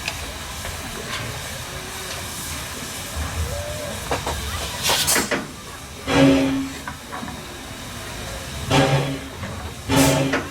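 Steam hissing from the C17 class steam locomotive, with a short sharp blast of steam about five seconds in, followed by several brief pitched sounds a second or so apart.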